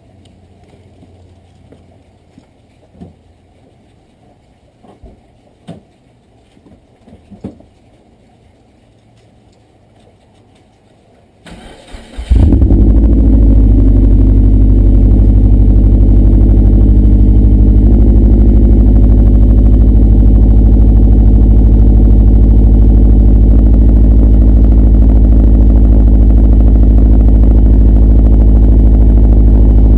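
A few faint clicks and knocks, then about twelve seconds in a 2011 Subaru WRX's turbocharged flat-four is briefly cranked and starts. It settles into a loud, steady idle through a CNT cat-back exhaust.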